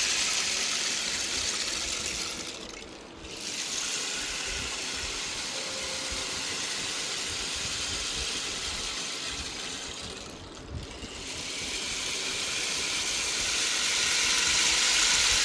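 Bamboo rain stick played: the seeds or pebbles inside run down in a long rushing patter like falling rain. It dies down briefly about three seconds in and again about ten seconds in as the stick is turned over, then pours again, swelling near the end.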